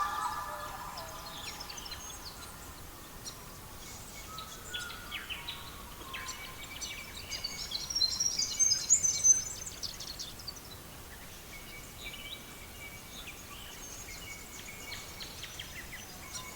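Songbirds chirping and trilling, a dense burst of quick high chirps about halfway through, over a faint steady hiss.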